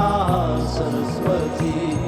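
Devotional mantra chanting with instrumental accompaniment: sung voices gliding over sustained tones, with low drum strikes.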